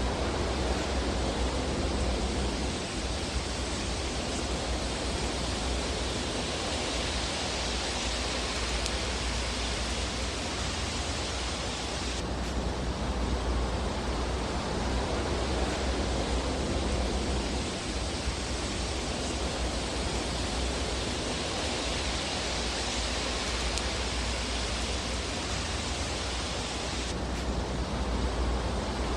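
Steady hiss and low rumble of a fire burning in a fireplace, with no distinct crackles standing out. The texture of the hiss changes abruptly twice.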